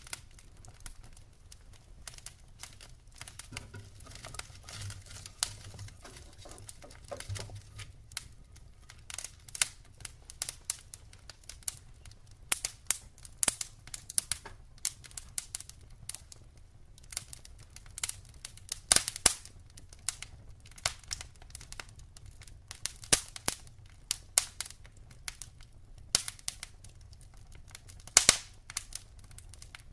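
Wood fire burning in a fireplace: irregular crackling and snapping of burning logs, with a few louder pops, over a low steady rumble.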